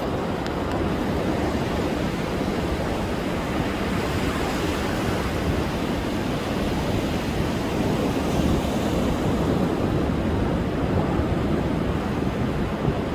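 Rough storm surf breaking and washing onto a sandy beach in strong wind: a continuous rushing that swells a little about eight seconds in, with wind buffeting the microphone.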